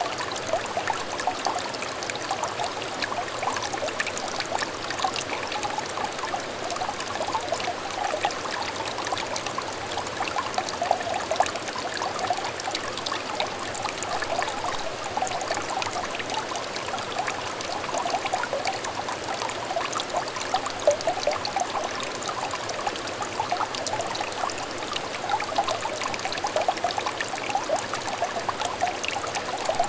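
Shallow clear stream trickling steadily over stones, with many small overlapping splashes and gurgles.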